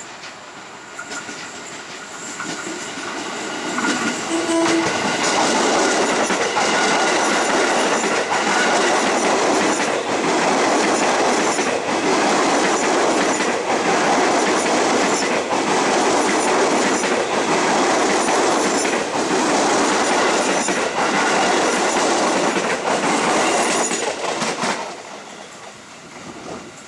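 KRL Commuter Line electric train passing close by, its wheels clacking over the rail joints. It builds over the first few seconds, stays loud for about twenty seconds and dies away near the end.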